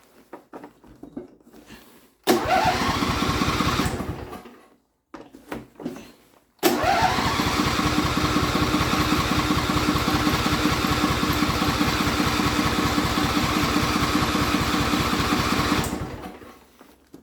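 Electric starter cranking the 25 hp Briggs & Stratton V-twin on an Allis-Chalmers AC130 lawn tractor: a short crank of about two seconds, then a long crank of about nine seconds at a steady rhythm that stops without the engine catching. It is a hard cold start, which the owner puts down to the single-cable setup giving no separate choke control.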